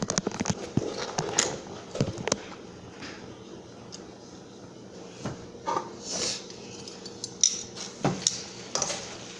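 Cookware clattering: a series of sharp metal clinks and knocks from a skillet, its lid and a cooking utensil, densest in the first two and a half seconds, then scattered.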